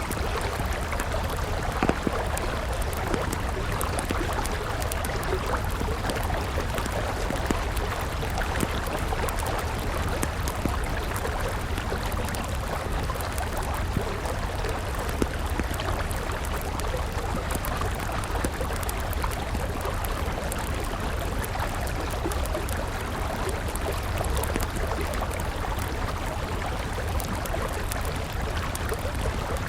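A river flowing steadily, with scattered crackles and pops from a wood campfire; two sharper pops stand out, about two seconds in and about halfway through.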